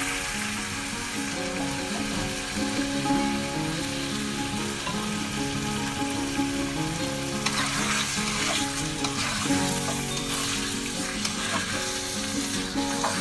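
Food frying and sizzling in a pan, with stirring that brings brighter bursts of sizzle in the middle of the stretch. Soft background music runs underneath.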